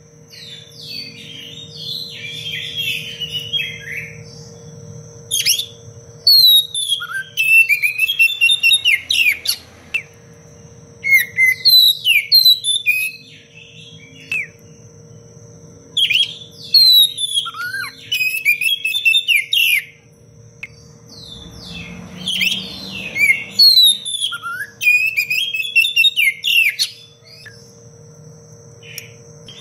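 Oriental magpie-robin singing in repeated bursts of fast, varied whistled phrases and trills, with short pauses between bursts.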